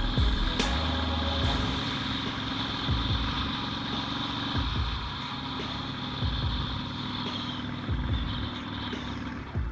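A small motorcycle's engine running steadily, with irregular low thumps throughout.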